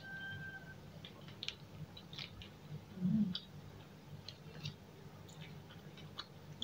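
Close-up mouth sounds of someone chewing a hand-eaten mouthful of rice and side dishes: soft, irregular wet clicks and smacks.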